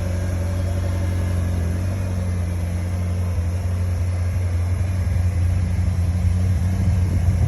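2013 Ferrari California's V8 engine idling steadily after a cold start, with a low, even note.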